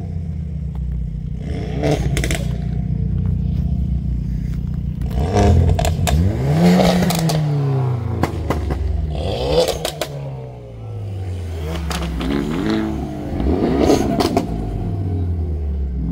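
Hyundai Elantra N engines idling steadily, then revving up and dropping back as the cars pull away one after another, twice rising and falling in pitch. Several sharp pops cut through.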